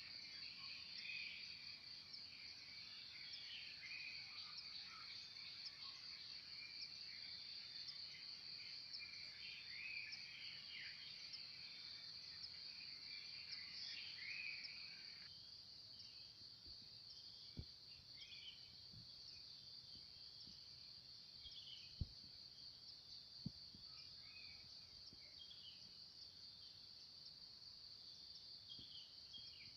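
Faint morning outdoor ambience: a steady high-pitched insect drone with birds chirping and calling over it, busy for the first half and sparser after. A few brief knocks in the second half.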